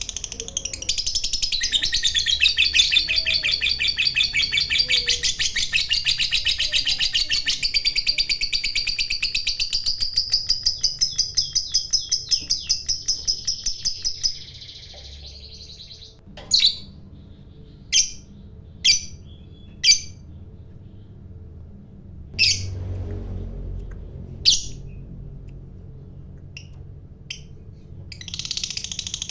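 Lovebird giving a long, rapid chattering trill ('ngekek panjang') for about fourteen seconds. It breaks off into a handful of single sharp chirps, and the chatter starts up again near the end.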